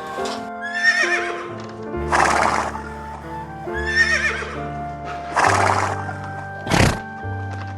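A horse whinnying twice, each call wavering and falling in pitch, with short breathy bursts after each call and a brief sharp one near the end, over background music.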